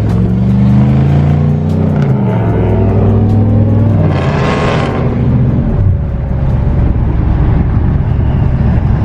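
Car engine running loud, its note rising and falling as it is revved, then settling to a steady low drone about six seconds in. A brief hissing rush sounds around four to five seconds in.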